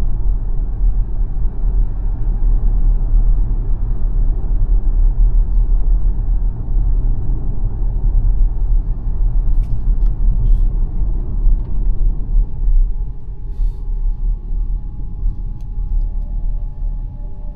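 Steady low road and tyre rumble of the Xpeng G9 electric SUV on the move, with no engine note. It eases near the end, where a faint steady tone comes in.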